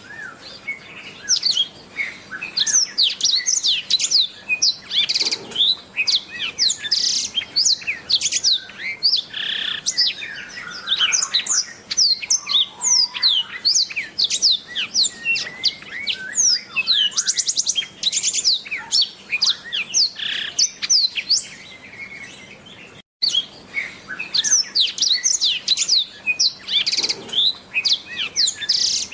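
Blackthroat (black-throated canary) singing a long, fast warbling song of rapid high twitters and trills. The sound cuts out for a moment about three-quarters of the way through.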